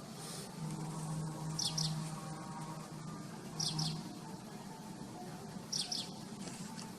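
A bird calling: a quick pair of high, falling chirps, repeated about every two seconds.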